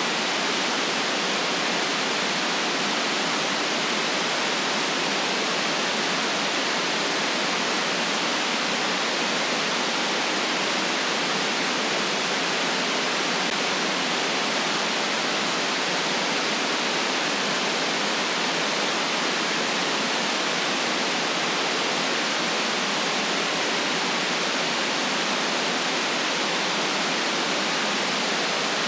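Synthetic white noise for relaxation: a steady, unchanging hiss with no deep rumble.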